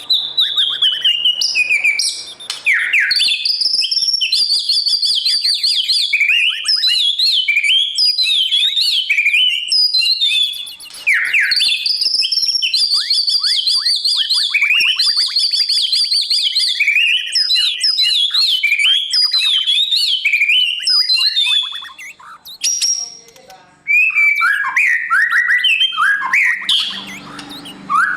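White-rumped shama singing a long, varied song of rich whistles, fast trills and swooping notes, almost without break, pausing briefly about a third of the way in and again toward the end.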